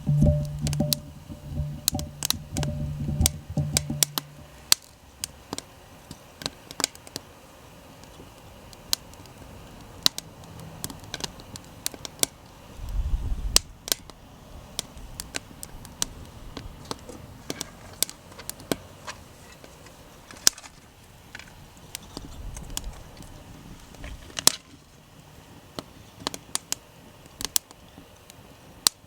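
Wood fire crackling, with sharp, irregular snaps and pops. Music fades out in the first few seconds, and there is a brief low rumble about 13 seconds in.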